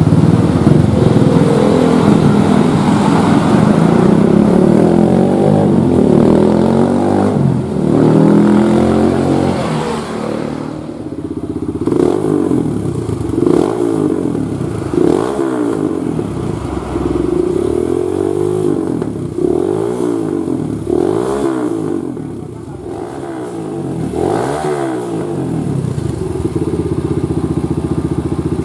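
Kawasaki KLX single-cylinder four-stroke engine running through a GP7 aftermarket exhaust, held at high revs for about ten seconds, then blipped up and down about eight times, roughly every second and a half, before settling to idle near the end.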